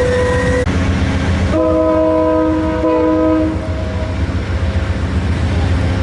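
Diesel locomotive passing with its engine running underneath, sounding its multi-chime air horn: a single held note cuts off just after the start, then a full chord blast comes about a second and a half in and lasts about two seconds.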